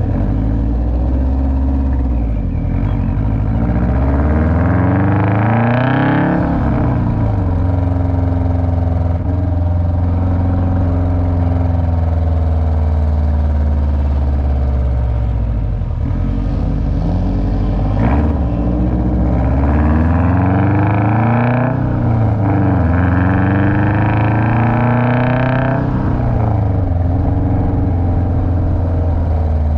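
Car engine pulling hard through the gears: its pitch climbs, drops sharply at a gear change about six seconds in, holds steady, then climbs again twice in quick succession in the second half, with a shift between the pulls and another drop near the end. A single sharp click sounds about eighteen seconds in.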